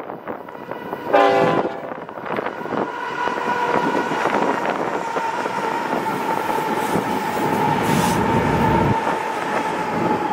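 Union Pacific diesel locomotives hauling a double-stack container train past at track speed. The horn gives one short blast about a second in. After that the locomotives and cars rumble by with a steady high whine.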